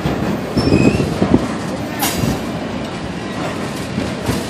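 Freight train cars, a covered hopper then tank cars, rolling past close by with a steady rumble of steel wheels on the rails. A cluster of heavier knocks comes in the first second and a half, and a sharp click about two seconds in.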